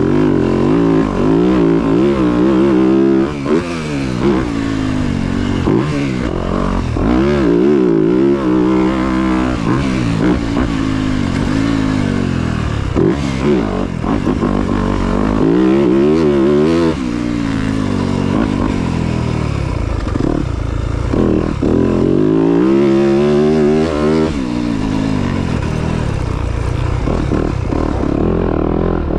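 Dirt bike engines revving, the pitch climbing and dropping again and again, with hard revving surges around 3, 8, 16 and 23 seconds in.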